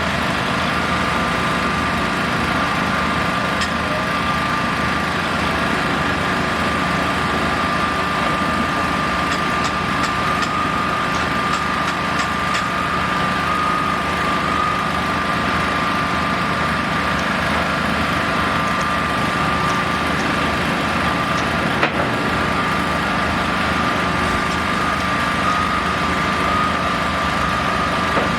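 A steady mechanical running sound, like an engine or motor at a constant speed, with an even high whine held throughout and a single brief knock a little past the middle.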